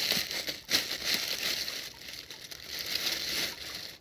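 Dense crinkling, crackling noise with a few sharper snaps, cutting off abruptly at the end.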